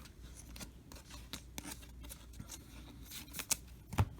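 Trading cards being handled and slid against one another: a scattering of faint clicks and scrapes, with a sharper tap about four seconds in.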